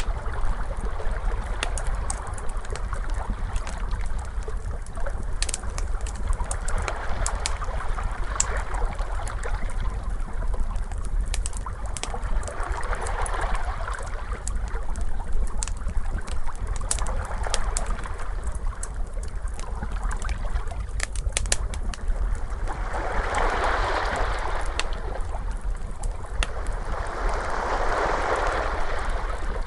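Wood fire crackling with scattered sharp pops, over ocean waves washing in and out in slow swells, two of them stronger near the end.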